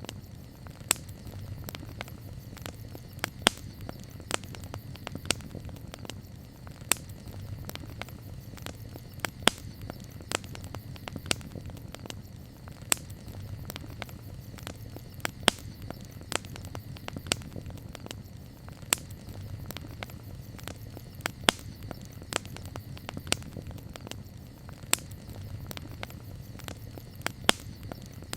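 Wood campfire crackling, with sharp pops every second or so over a low, steady rumble.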